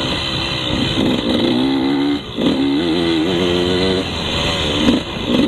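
KTM 150 two-stroke dirt bike engine revving in repeated surges as it is ridden. The throttle is briefly closed about two seconds in and again near the end.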